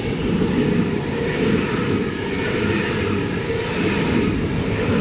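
Sydney Trains A-set (Waratah) electric train moving through the station, a loud steady rumble of wheels and motors.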